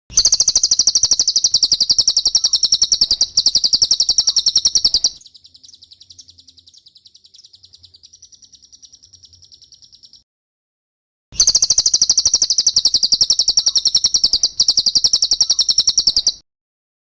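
Cililin song: loud, very rapid high-pitched trilling phrases of about five seconds each, with a much softer high twittering between them and a pause of about a second before the second phrase. This is a birdsong tutor recording (masteran) with pauses.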